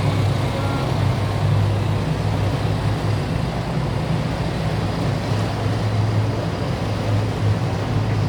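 Tour boat's engine running steadily at low cruising speed, a constant low hum with an even hiss of water and wind over it.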